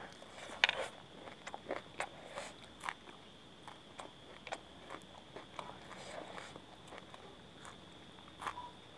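Close-miked chewing and biting of crisp fried piyaju fritters and raw green chillies: irregular sharp crunches, the loudest about two-thirds of a second in.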